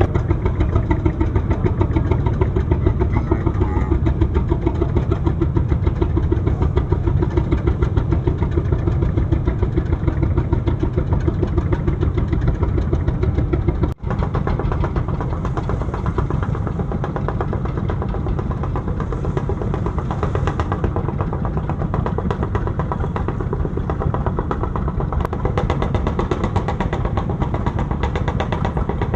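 Engine of a traditional fishing boat running steadily with a rapid, even chugging. It drops out for an instant about fourteen seconds in, then carries on a little quieter.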